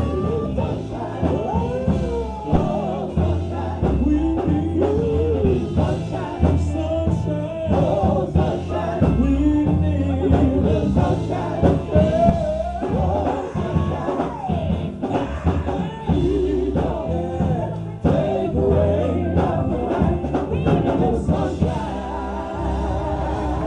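Live gospel group singing over a band with drums and bass, the lead voice sliding through bending runs.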